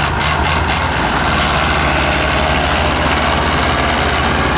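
Belarus tractor's diesel engine running loudly and steadily, with a clattering pulse in the first second that settles into an even drone.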